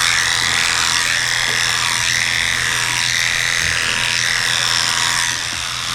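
Electric pet grooming clippers running steadily with a low, even hum.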